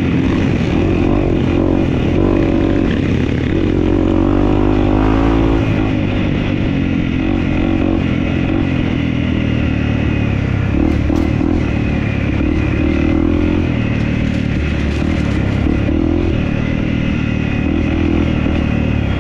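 Dirt bike engine running as it is ridden, revs rising and falling with the throttle, with a climb in revs about four to five seconds in.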